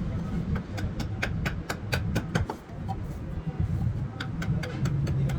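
Rapid run of short, sharp taps of a tool on work, about four to five a second, pausing briefly in the middle, over a steady low rumble.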